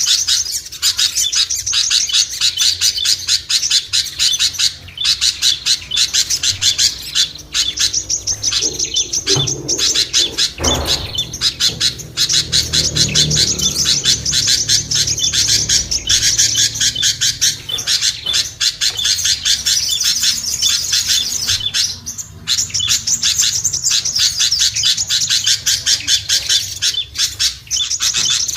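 Dense, rapid chirping and twittering of many small songbirds, played as a bird-lure call track.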